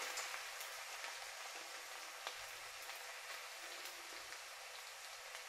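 Crushed garlic and ginger sizzling in hot mustard oil in a kadai: a steady hiss with scattered small pops, slowly dying down.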